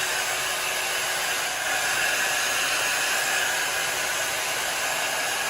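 Slopehill 1800W ionic hair dryer running with a nozzle attachment fitted: a steady, even rush of blown air.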